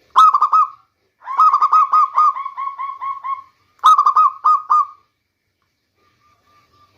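Zebra dove (local Indonesian perkutut) cooing: three phrases of quick, clipped coos. The middle phrase is the longest and trails off in a run of softer notes.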